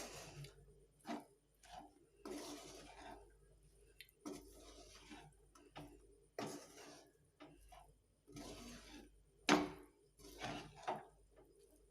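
Kitchen utensil scraping and knocking against a cooking pan or dish in short, irregular strokes, with a sharper knock about nine and a half seconds in.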